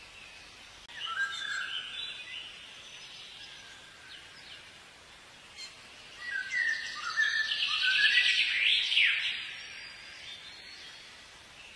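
Birds chirping and calling over a steady faint hiss: a short spell about a second in, then a longer, louder one from about six to nine and a half seconds, with quick rising and falling chirps.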